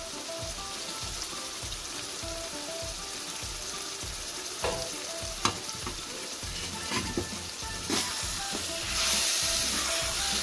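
Keema sizzling as it cooks in a wok, with a few sharp clinks of a steel ladle on the pan. The sizzle grows louder near the end as the ladle stirs in the freshly added onion, green chilli and coriander.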